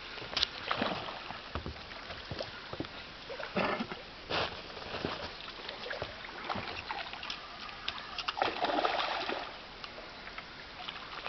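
Water splashing and sloshing in irregular bursts as a hooked carp thrashes at the surface while being drawn in, with a longer, louder splash near the end.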